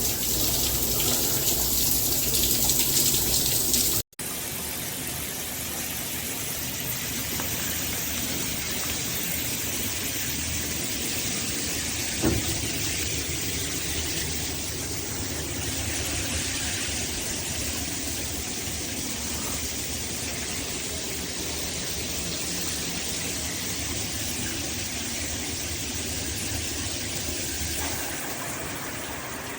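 Shower water spraying with a loud, even hiss, which cuts off abruptly about four seconds in. A quieter, steady rushing noise follows, with a single sharp tick near the middle.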